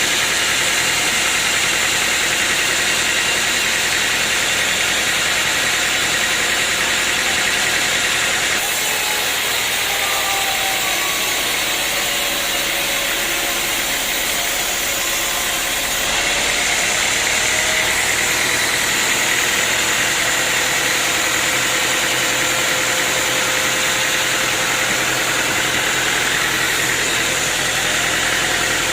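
Sawmill machinery running steadily, a motor with a loud, even hiss. The sound shifts abruptly about nine seconds in and again about sixteen seconds in.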